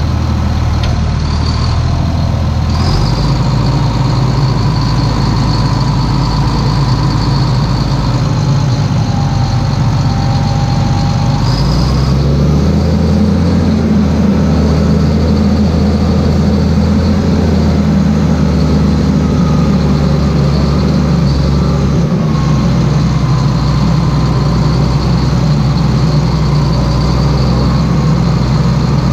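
Claas Xerion 3800 tractor's diesel engine running steadily, its note shifting about three seconds in and rising about twelve seconds in, with a faint high whine throughout.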